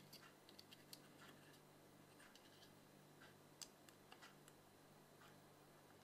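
Near silence: faint, irregular small clicks and ticks over a low steady hum.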